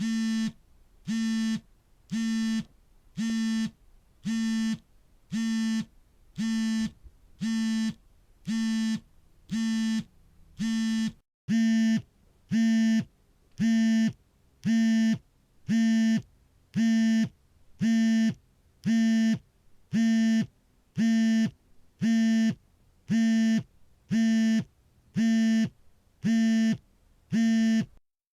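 Smartphone vibration motor buzzing in repeated short pulses, about three every two seconds, each a steady pitched buzz: the vibrate alert of an incoming call. After a brief break about eleven seconds in, the pulses are louder.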